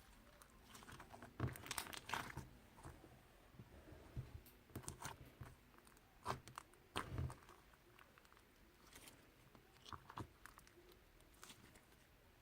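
Faint, irregular crunching and crinkling noises, with louder clusters near the start and about halfway through.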